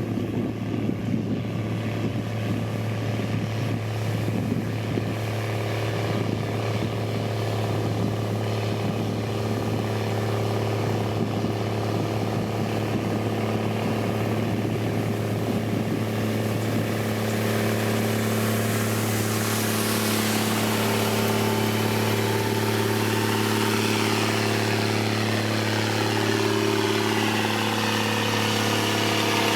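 A heavy construction machine's diesel engine running steadily, with a rough crackling noise over it in the first half. From around the middle the engine grows a little louder and higher whining tones join in, sliding down in pitch.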